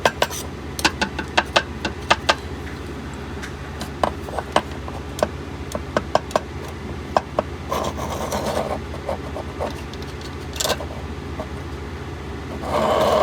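Small sharp clicks and taps of clamps and fan parts being handled and adjusted, a cluster at first and then scattered, with a brief scraping rustle twice, over a steady low hum.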